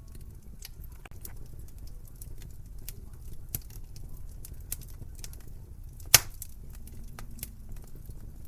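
Wood fire crackling in a fireplace: a low steady rumble of flame with scattered sharp snaps, and one much louder pop about six seconds in.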